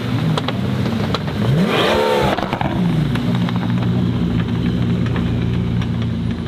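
Car engine revving sharply up in pitch about two seconds in, then running on at a steady pitch.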